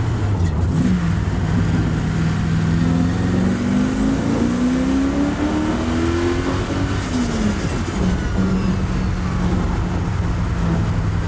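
Turbocharged TVR Chimaera V8 accelerating on boost: the engine note climbs for about six seconds while a high turbo whistle rises above it. About seven seconds in, the throttle lifts, the whistle falls away, and the engine settles back to a steady cruise.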